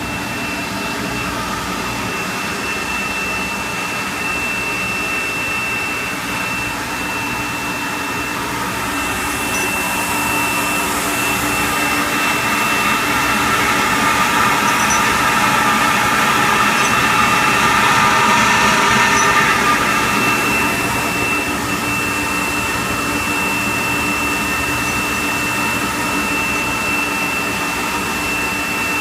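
Industrial parts washer running: a loud, steady rush of machine noise with a thin high whine. It swells louder about a third of the way in, then settles back.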